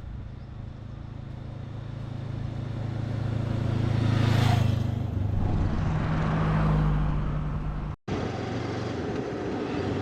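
Honda CB500X's parallel-twin engine running under way, with wind and road noise; the engine note rises about halfway through and the noise swells loudest around four to five seconds in. The sound cuts out for an instant near the end, then the engine carries on.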